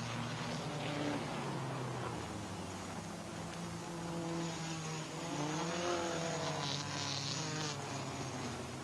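Racing sports car engines running on the track, several at once, with one car going by about five to six seconds in, its engine note rising and then falling.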